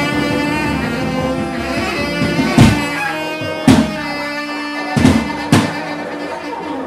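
Free-improvised music from tenor saxophones, cello and drums: held droning tones, with four loud, sharp drum hits in the second half.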